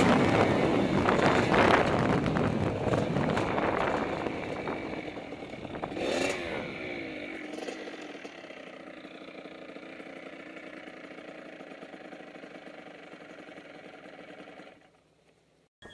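Dirt bike engines running loud and revving, then fading as they move away, with a brief rev about six seconds in. A fainter steady engine drone remains and then cuts off just before the end.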